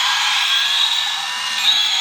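Small high-speed electric motor running steadily with a high whine, switched on with a click just before.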